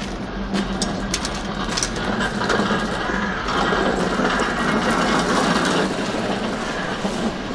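A rattling, clicking mechanical sound with a rushing noise beneath it. It swells about two seconds in and eases off near the end.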